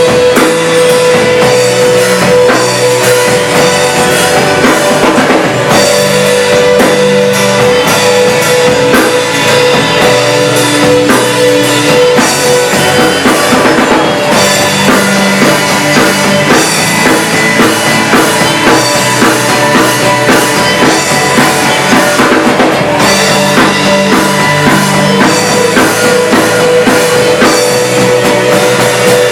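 Church worship band rehearsing a song, loud and continuous: drum kit keeping a steady rock beat under guitars and long held notes.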